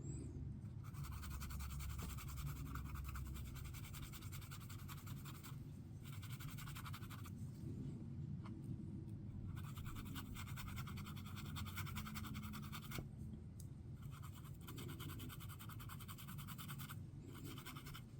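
Flakes being burnished into a mould with a brush: faint, fast, fine scratching strokes in several stretches a few seconds long, with short pauses between.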